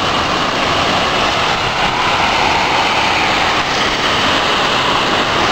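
Thunderstorm downpour: heavy rain falling in a loud, steady hiss.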